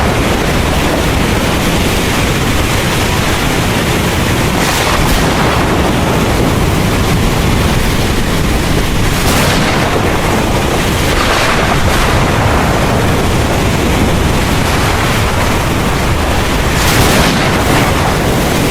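Heavy rain falling steadily over a continuous low rumble of thunder, with a few brief surges of louder hiss.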